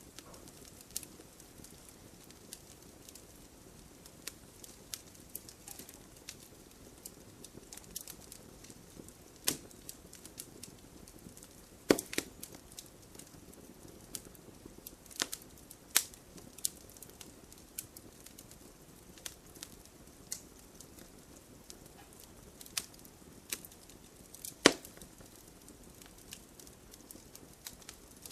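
Wood fire crackling in a fireplace: irregular sharp pops and snaps over a low steady hiss, with two louder snaps, one near the middle and one near the end.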